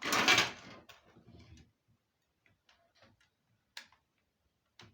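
A DDR3 laptop RAM stick being handled and fitted into the laptop's bottom memory slot: a short, loud scrape at the start, then a few light plastic-and-metal clicks, with one sharper click about four seconds in.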